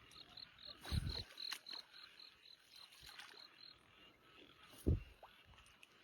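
A small creature in the night paddy calling a short high chirp, repeated evenly about four times a second, which stops after about three and a half seconds. Two dull low thuds come about one second and five seconds in.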